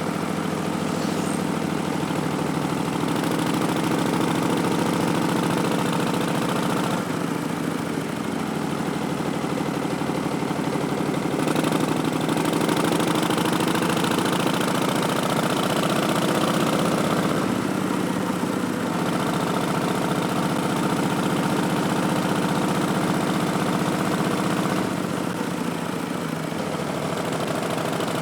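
2019 Harley-Davidson Street Bob's Milwaukee-Eight 107 V-twin running on the move through Vance & Hines Twin Slash slip-on mufflers, its note shifting several times with throttle and gear changes.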